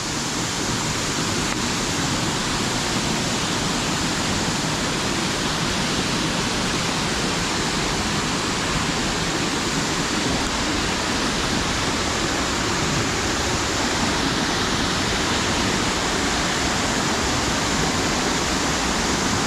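Waterfall: water pouring down a drop after running under a road bridge, a loud steady rushing with no let-up.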